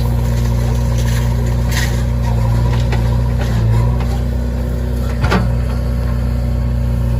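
Heavy diesel engine of a backhoe loader running steadily under load, with a few short knocks about one, two and five seconds in.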